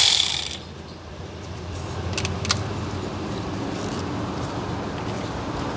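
A power tool whirring on a bolt cuts off about half a second in, followed by a low steady rumble with a few light metallic clicks of tools and fasteners around two seconds in.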